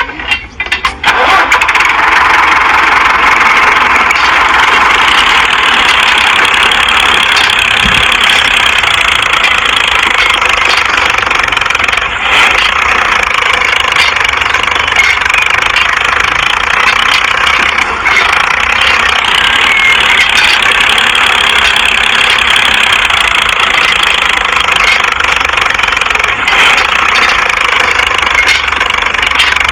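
Small motor of a DIY mini tractor starting up about a second in and then running steadily with a high, even whirring.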